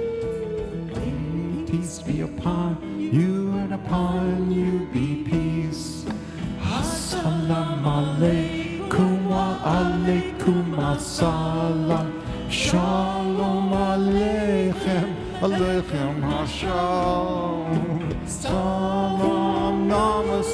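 Live ensemble music: a melody line over held low chords, with occasional percussion hits.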